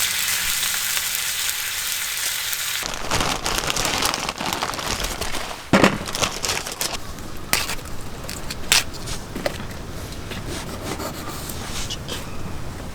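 Food sizzling as it fries, then a sudden change about three seconds in to a coarser crackling with a few sharp clicks and knocks.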